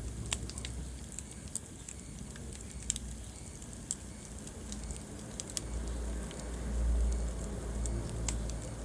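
Wood fire burning in a fireplace: irregular sharp crackles and pops over a low steady rumble of the flames, which swells in the second half.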